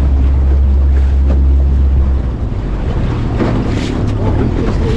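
Motorboat engine running under way, with wind buffeting the microphone and water noise. The engine's low drone shifts to a higher note about two seconds in.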